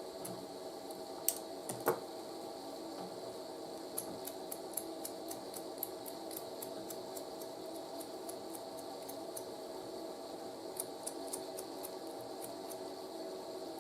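Small sharp snips and clicks from a hand cutting tool stripping the old cloth-covered rubber insulation off a radio line cord. There are a few louder snips early on, then a run of quick light clicks at about three or four a second, and a shorter run near the end, all over a steady background hum.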